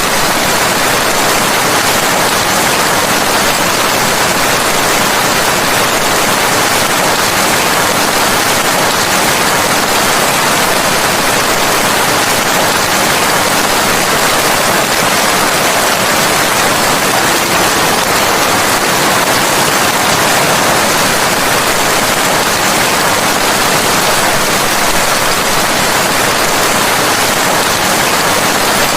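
Steady, dense rainfall, an even hiss with no distinct drops or changes.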